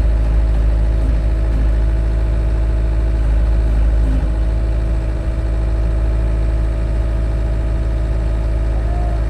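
Engine idling steadily: a loud, constant drone with an even hum that does not change pitch.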